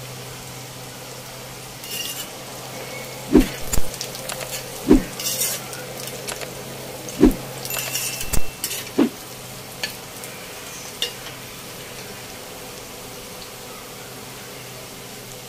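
Chopped carrots and onions sizzling in hot oil in a metal pan, with a low steady hum underneath. Between about two and nine seconds in, a spatula scrapes through the vegetables and knocks against the pan about half a dozen times, then the sizzling goes on alone.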